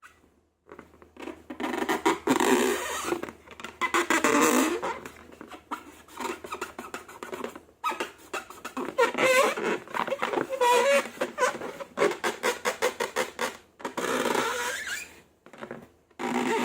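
Slime being squeezed and worked by hand: bursts of sticky crackling clicks and squishes, with short squeaks, pausing briefly a few times.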